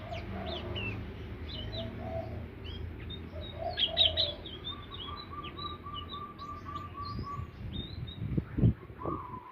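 Indigo flycatcher song: quick, high chirps and short whistling phrases, loudest about four seconds in. A run of evenly repeated lower notes, about four a second, comes in the middle, over a steady low hum.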